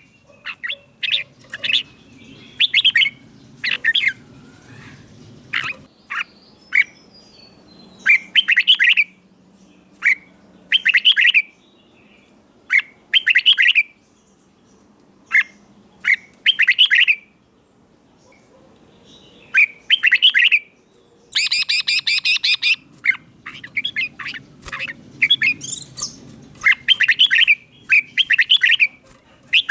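Red-whiskered bulbul singing: short, loud whistled phrases one after another with brief pauses between them, and a longer pause a little past the middle.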